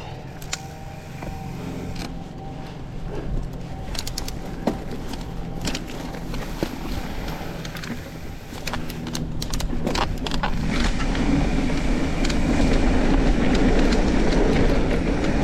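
Mountain bike riding down a dirt trail, heard from a helmet- or body-mounted camera: tyres rumbling, with sharp rattles and knocks of the bike over bumps. From about ten seconds in, wind noise on the microphone rises and grows louder as the bike picks up speed.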